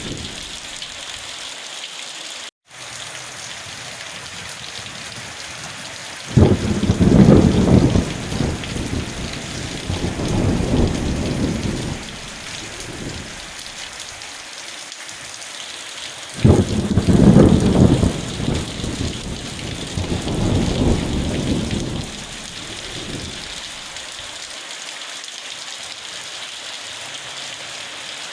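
Steady rain with thunder: two rumbles break in suddenly, about six and sixteen seconds in, and each fades away over several seconds. The sound cuts out completely for an instant about two and a half seconds in.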